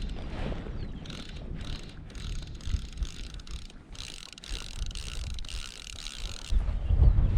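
Fly reel's click-pawl ratchet buzzing as line is stripped off the spool, a rapid run of fine clicks that stops suddenly near the end, over low wind rumble on the microphone.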